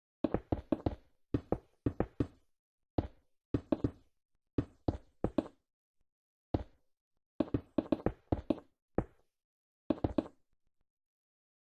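Sharp knocks in quick groups of two to four, each with a short ring, with brief pauses between the groups.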